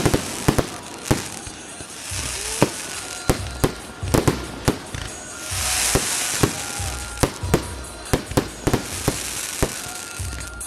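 Aerial fireworks going off: a rapid, uneven string of sharp bangs, several a second at times, with stretches of hissing crackle from bursting shells about halfway through and again near the end.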